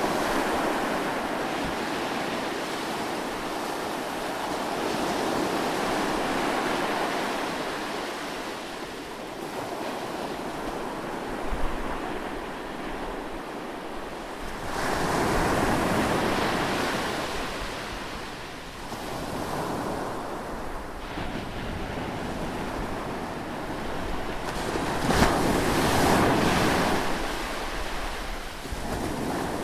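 Close seaside waves rushing in and drawing back, the surf swelling and ebbing every few seconds, with stronger surges about halfway through and near the end. A brief sharp snap sits inside the last surge.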